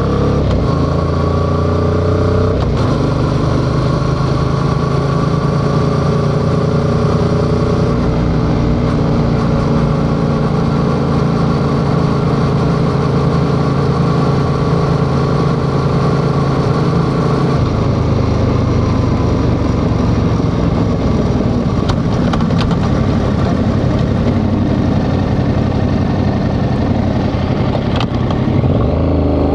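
Yamaha XSR700's parallel-twin engine under way on the road. The revs climb for the first couple of seconds, then the pitch drops with a gear change and holds a steady cruising note. A little past halfway, the steady note breaks up into a rougher, uneven sound.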